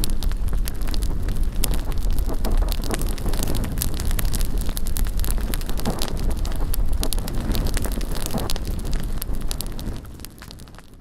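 Bonfire crackling with many sharp pops, over a low rumble of wind on the microphone. It drops in level about a second before the end.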